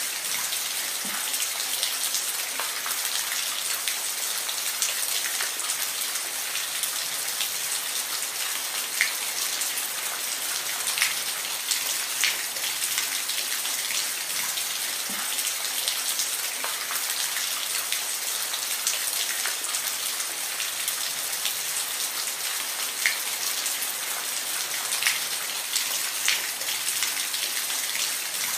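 Steady rain falling, an even hiss with scattered louder individual drops ticking on a surface every few seconds.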